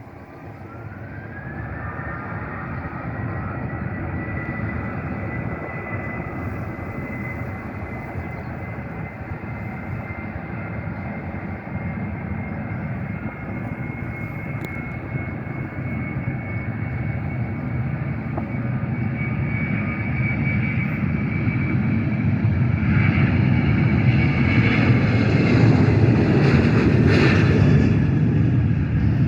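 Jet airliner engines: a high whine rises in pitch over the first two seconds and then holds steady over a broad rumble, and the whole sound grows louder to a peak near the end.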